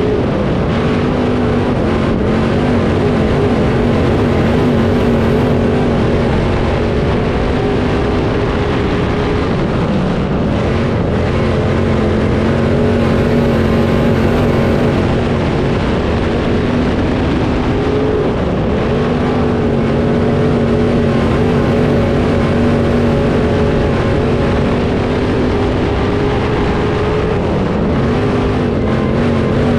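Dirt late model race car's V8 engine running hard at speed, the pitch holding steady down the straights and dipping briefly a few times as the throttle lifts, then climbing again near the end.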